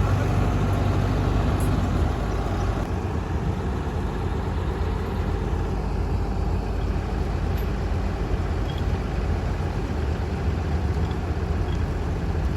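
Heavy diesel engine running steadily with a low hum, a little quieter from about two seconds in.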